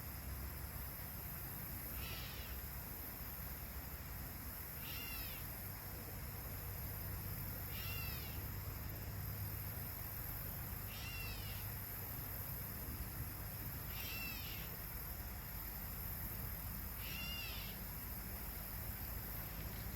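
An animal's short mewing call, given six times at even spacing about every three seconds.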